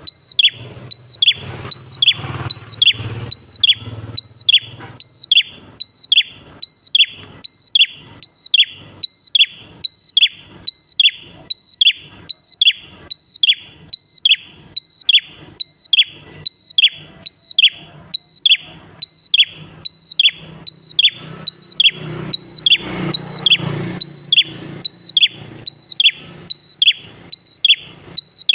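Prenjak klawu (a prinia) calling in a long, unbroken series of short, high whistled notes, each dropping sharply in pitch, repeated a little under twice a second.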